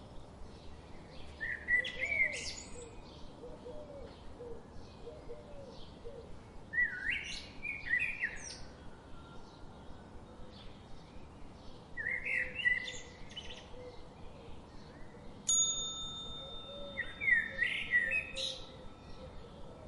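Birdsong: one bird sings a short, loud phrase about every five seconds over a steady background of faint, quick chirping. Near the end, a steady high tone starts suddenly and holds for about four seconds.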